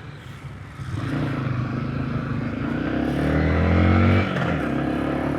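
Small motorcycle engine accelerating: it gets louder about a second in and rises in pitch until about four seconds in, then drops away as the throttle eases or the gear changes.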